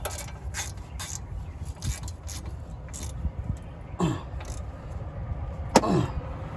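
Socket ratchet clicking in short strokes as wheel hub assembly bolts are tightened, with two short falling squeaks in the second half.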